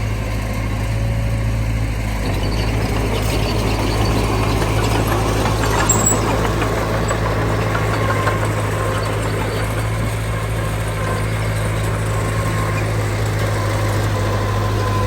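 Heavy diesel earthmoving machinery running steadily with a deep engine hum, growing rougher and noisier for several seconds in the middle before settling, with one sharp click about six seconds in.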